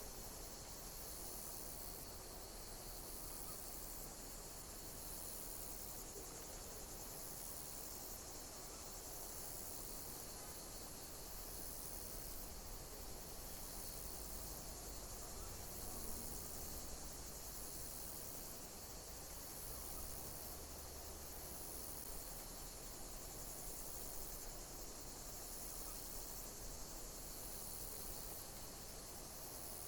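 Insects chirping in a steady high-pitched chorus, with a short high call repeating about every second and a half.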